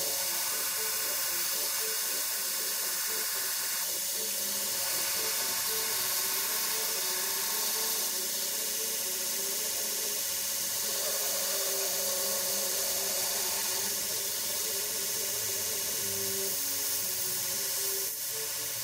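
Belt grinder grinding a steel knife blank, a steady hiss, with background music playing under it. The grinding eases off near the end.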